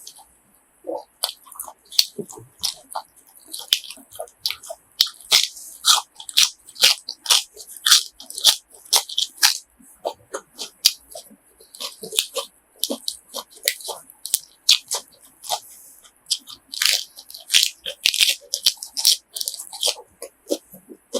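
Close-up chewing and biting of grilled pork offal, a dense run of short, wet, crunchy clicks that come and go in bursts.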